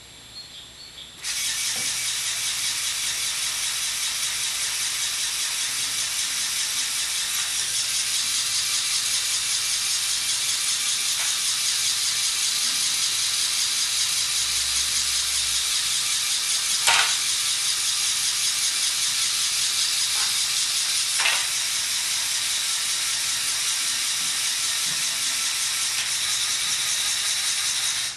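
Lego Technic motors and plastic gear trains whirring steadily as the 8x8 truck drives, a high-pitched mechanical whine with a light rattle. Two sharp clicks come partway through, and the whir cuts off abruptly at the end.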